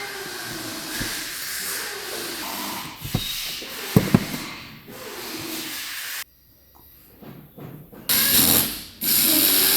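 Steady hissing workshop noise with a few sharp metallic clicks, cut off abruptly; then two loud bursts of hissing compressed air, each about a second long.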